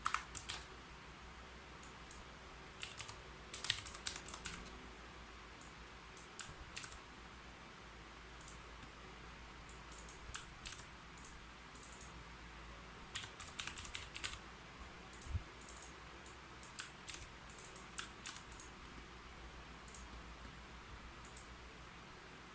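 Keyboard typing: quick clusters of key clicks in irregular bursts, broken by pauses of a second or two.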